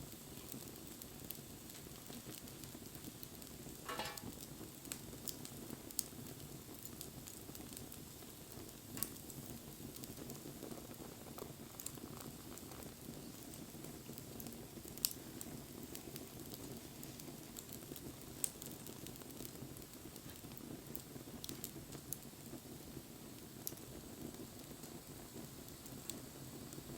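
Wood bonfire burning: a steady low rumble of flames with sharp crackles and pops every few seconds.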